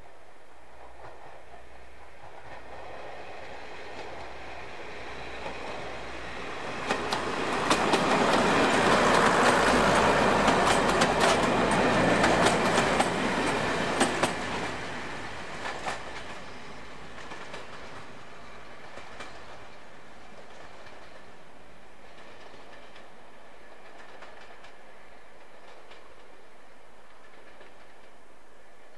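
A train passing by on the railway. It builds over several seconds and is loudest in the middle, with a run of sharp wheel clicks over the rail joints, then fades away.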